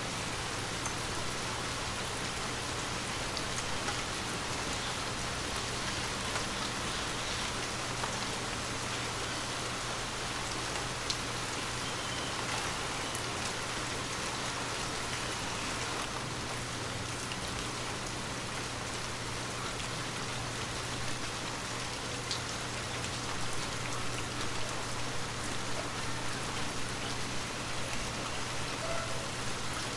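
Steady rain falling and pattering, with scattered individual drops ticking now and then; the patter grows a little uneven near the end.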